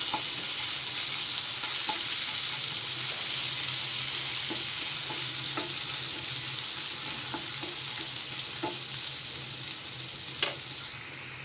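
Crushed ginger and garlic with cumin and whole spices sizzling steadily in hot mustard oil in a nonstick frying pan, with a spatula clicking against the pan every second or two.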